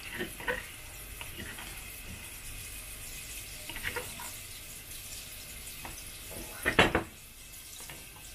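Ground spice paste of garlic, shallot, candlenut and coriander sizzling steadily in hot oil in a wok, with a few light taps and a short, loud clatter about seven seconds in.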